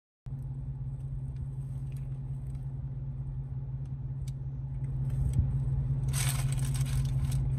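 Car engine idling, heard inside the cabin as a steady low hum, with a few faint clicks. A louder hiss joins about six seconds in.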